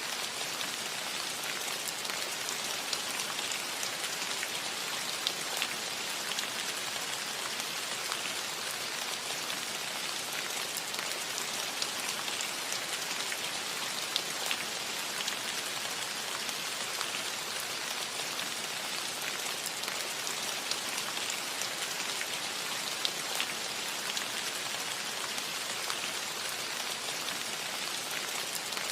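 Steady rain falling on a roof, a constant hiss with many small drop ticks scattered through it.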